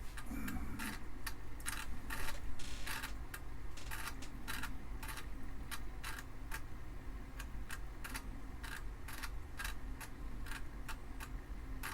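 Amiga 500's 3.5-inch floppy drive reading a disk during boot: the head stepping in a run of irregular sharp clicks, several a second, over a low hum. The drive sounds a little funky when accessed, a noise the owner thinks may still be normal.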